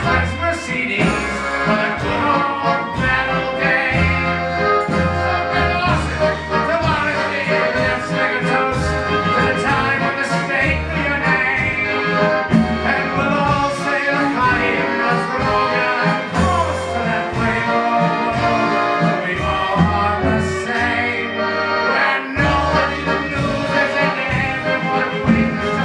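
Klezmer band playing an instrumental passage, with accordion carrying the melody over a steady bass line.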